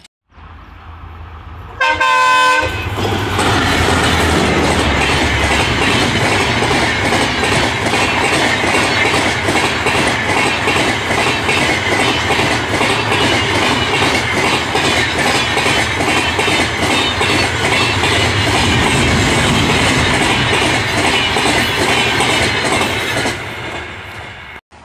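An Indian Railways train horn gives a short blast. Then a passenger train passes close at speed: a loud, steady rush of wheels with fast clickety-clack over the rail joints for about twenty seconds, dropping away near the end.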